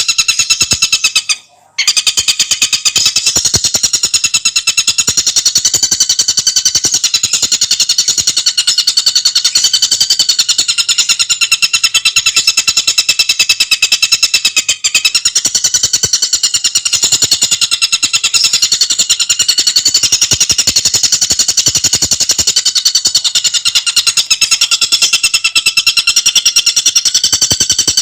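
Tengkek buto bird calling a long, rapid, rattling chatter of tightly packed high notes, with a brief break about a second and a half in.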